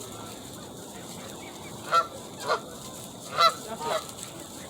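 Geese honking: four short calls in the second half, two of them close together near the end, over a steady hiss of background noise.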